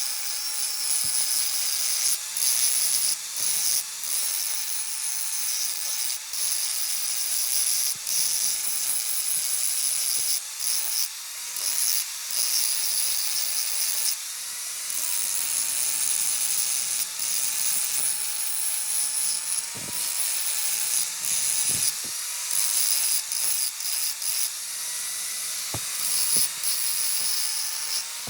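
A small high-speed electric power tool running steadily on metal, with a constant whine, a strong high hiss and scattered clicks; its pitch dips slightly now and then as it takes load.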